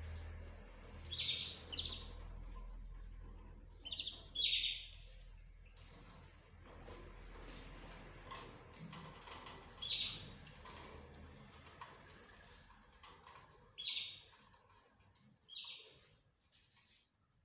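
Cage birds calling: short, sharp chirps every few seconds, some in quick pairs, over a faint low hum in the first few seconds.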